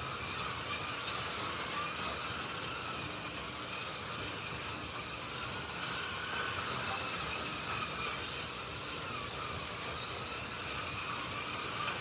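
Slot.it 1:32 slot cars running on the track, their small electric motors whining steadily with the pitch rising and falling as they speed up and slow down through the lap.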